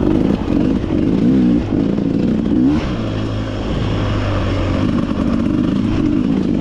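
Beta 300RR two-stroke dirt bike engine, its note rising and falling with short throttle blips, settling into a steadier low run about three seconds in, then revving again near the end.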